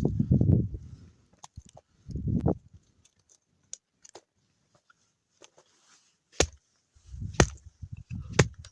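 Wood being chopped: a few sharp knocks, three of them about a second apart near the end, with dull low thuds and small clicks in between.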